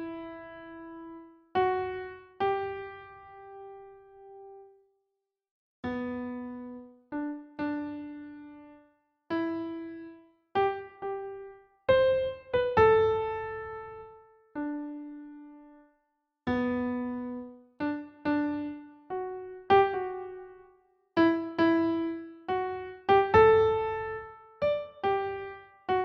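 Background music: a slow, sparse melody of single electric-piano notes, each struck and left to ring and fade, with a few short silent pauses between phrases.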